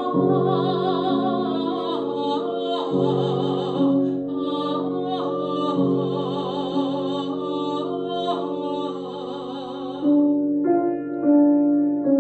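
Soprano voice singing with wide vibrato over sustained piano accompaniment in a Romantic Russian art song. About ten seconds in the voice stops, and the piano carries on alone with a few struck chords.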